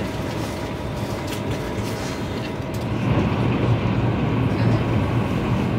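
Steady running noise and rumble inside the carriage of a Frecciarossa 1000 high-speed train travelling at speed. A low hum grows stronger and slightly louder about three seconds in.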